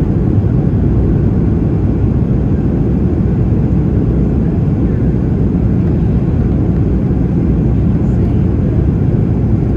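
Steady, loud cabin rumble inside a Boeing 737-800 airliner: engine and airflow noise heard from a window seat, deep and even, with no change in pitch or level.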